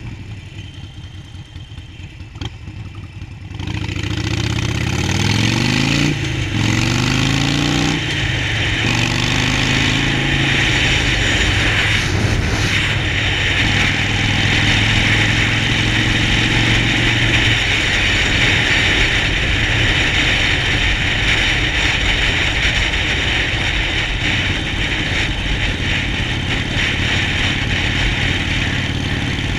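Harley-Davidson Sportster 48's air-cooled V-twin running quietly at first, then opening up about four seconds in and revving higher through two gear changes before settling into a steady run at speed.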